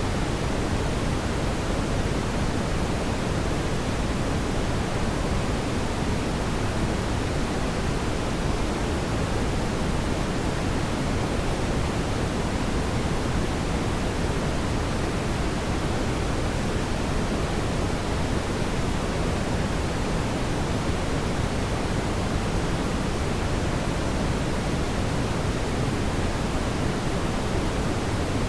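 Steady, even rushing noise, fuller in the low end, with no crackles or pops and no change in level.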